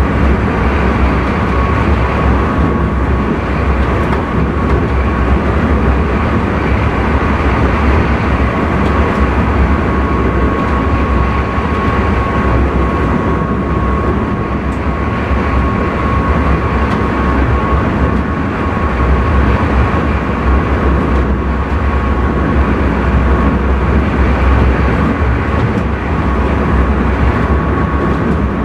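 Intercity train running at speed, heard from inside the driver's cab: a steady rumble of wheels and running gear with a thin, steady whine above it.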